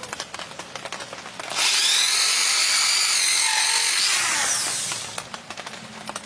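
A power tool running against PVC pipe for about three and a half seconds, starting about a second and a half in, with a whine that shifts in pitch, then winding down. Light handling clicks come before and after.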